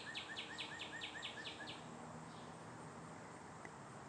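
Northern cardinal singing a rapid run of repeated, sharply down-slurred whistled notes, about four to five a second, that stops about two seconds in.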